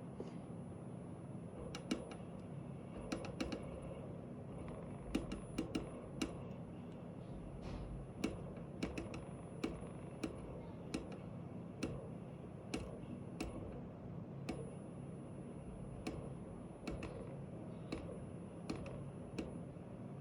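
A vehicle actuator making an irregular clicking noise, sharp clicks coming roughly every half second to a second over a steady low hum: the weird noise of a faulty actuator.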